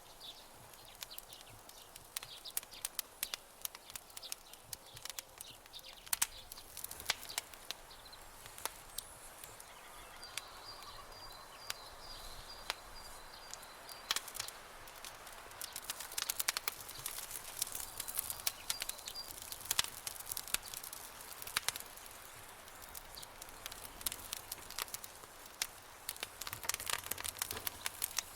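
Campfire crackling, with sharp irregular pops and snaps over a soft hiss. A faint high chirping call comes in about ten seconds in and briefly again later.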